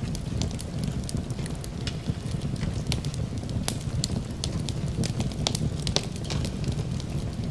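Wood fire in a fireplace crackling, with frequent sharp pops over a low, steady rumble.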